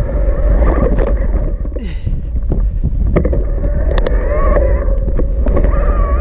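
Riding sounds from a Cube Reaction Pro 400 eBike on a rough trail: wind buffeting the action camera's microphone and tyres rumbling, with scattered clicks and rattles, over a steady whine from the electric assist motor whose pitch rises briefly about four seconds in.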